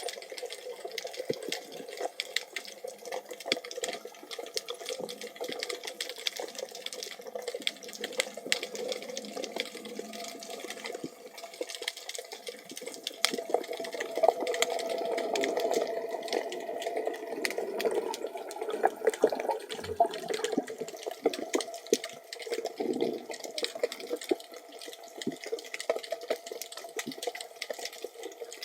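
Water sound as picked up by a camera underwater: a steady crackle of tiny clicks over a muffled water rush, which swells louder for several seconds in the middle.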